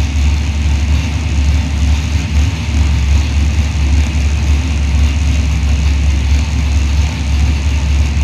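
Small-block Chevrolet 350 V8 engine running steadily, without revving.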